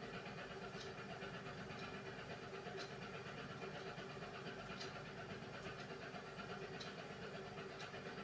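Beko WMY81283LMB2 washing machine running a hand wash cycle: a steady motor hum with a faint light click about every two seconds.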